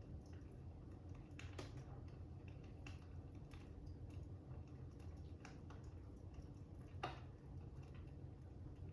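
Fire crackling: irregular sharp pops and snaps over a steady low rumble, with the loudest pop about seven seconds in.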